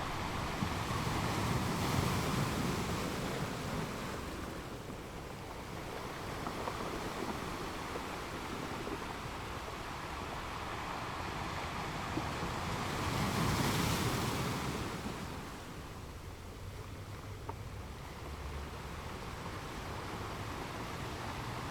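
Ocean surf breaking on rocks: a continuous wash of waves, with two louder surges, one about two seconds in and a larger one around thirteen seconds.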